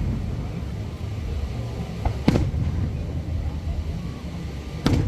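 Aerial fireworks shells bursting: two loud bangs about two and a half seconds apart, the first just after a small pop, over a steady low rumble.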